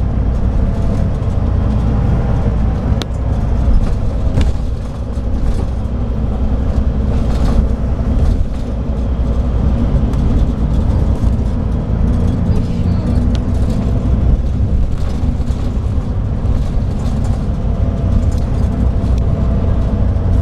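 Scania K340IB coach with a Scania DSC9 diesel engine, running steadily under way, a loud, even low drone with faint engine tones over it. A couple of sharp clicks or rattles come about three and four and a half seconds in.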